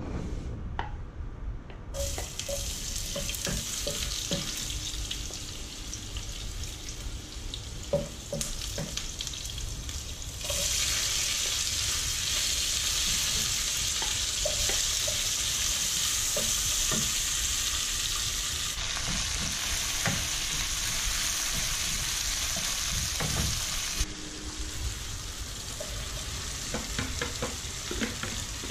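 Chopped garlic, onion, ginger and tomato sizzling in hot oil in a frying pan as they are sautéed and stirred with a wooden spatula, with scattered knocks and scrapes of the spatula against the pan. The sizzle starts about two seconds in, grows louder about ten seconds in, and eases off again about twenty-four seconds in.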